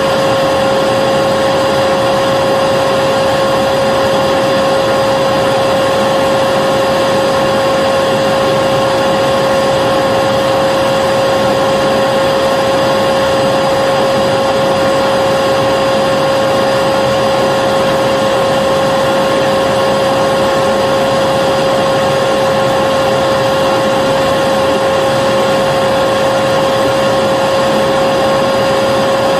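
Vacuum cleaner motor running steadily, a constant rushing noise with a steady whine.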